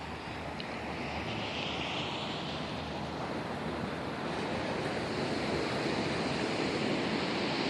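Ocean surf breaking and washing up the beach, a steady rush that slowly swells louder, with some wind on the microphone.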